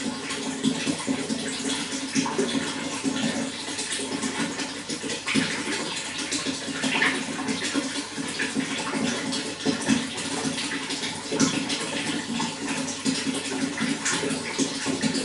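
Running water flowing and splashing steadily, full of small gurgles.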